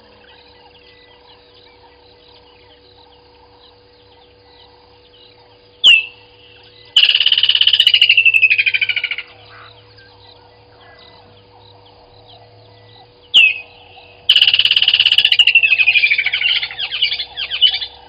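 A bird calling twice. Each time it gives a single sharp note and then, about a second later, a loud, rapid trill that slides down in pitch and lasts two to four seconds. Under it runs a faint steady background with a low hum.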